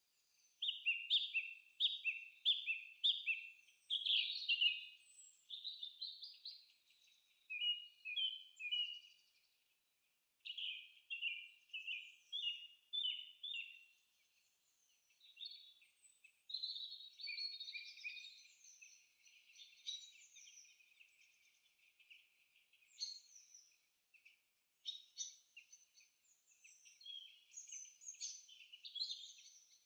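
A songbird singing: phrases of quick, high, repeated chirps, broken by short pauses.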